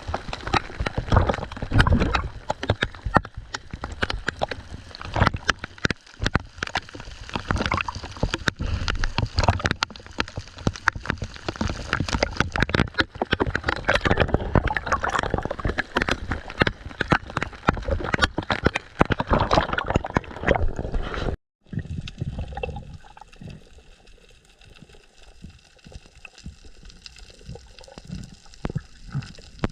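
Sea water sloshing and gurgling with dense crackling and knocking. About two-thirds of the way through it cuts off suddenly and gives way to a quieter, calmer water sound.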